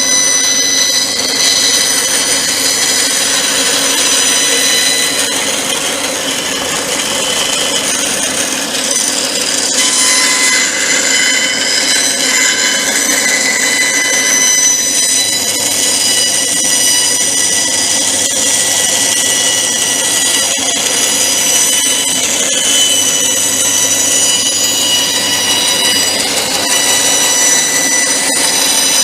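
Electric power saw running steadily as it cuts wood for a frame cross-member, its motor giving a continuous high whine over the cutting noise.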